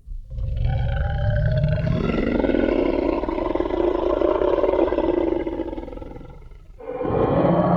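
Designed Tyrannosaurus rex roar sound effect: a low rumble swells into one long, deep roar that fades away after about six seconds. Another growl starts near the end.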